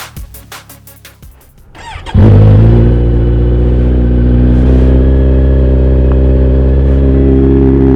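Electronic music with a beat ends about two seconds in, and then a Kawasaki Z900's inline-four through an Akrapovic exhaust with its dB killer fitted starts up loud and holds a steady low-rev note.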